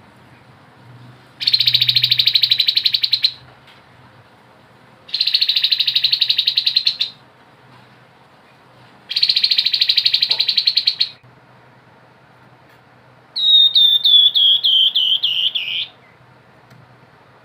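Grey-headed babbler singing: three rapid trills of about two seconds each, a couple of seconds apart, then a run of about ten quick notes that step down in pitch.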